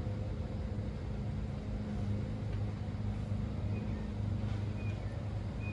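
A steady low mechanical hum, with a few faint, short, high chirps over it.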